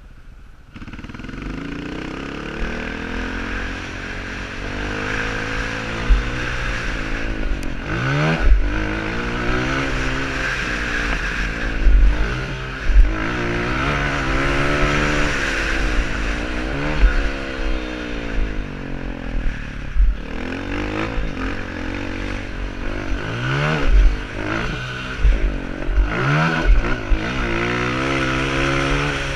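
Honda CRF230 dirt bike's single-cylinder four-stroke engine, revving up and down continuously as it accelerates and backs off around a motocross track, with quick rising revs at several points. Low thuds come through now and then.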